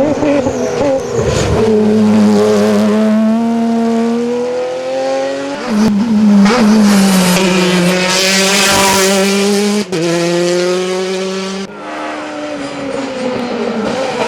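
Rally car engines at full throttle, each climbing in pitch through its gears with drops at the shifts, and tyres squealing. The sound changes abruptly three times as one car gives way to the next.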